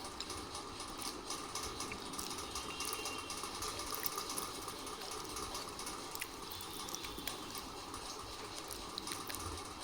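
Close-miked ASMR crunching and mouth sounds: a dense run of small crackles and clicks over a steady hiss.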